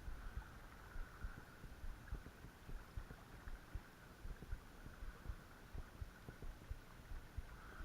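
Irregular low thumps and rumble on the microphone, over a faint steady rush of creek water.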